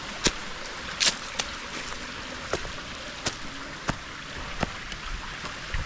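Stream water running steadily, with footsteps on the trail at a walking pace, one step about every three-quarters of a second.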